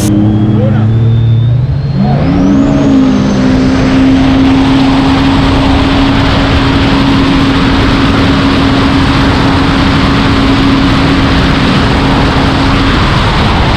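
Supercharged four-cylinder engine of a 2019 Yamaha FX SVHO jet ski running hard. Its note climbs about two seconds in, then holds steady at high revs over a loud rushing noise, and the steady note drops away near the end.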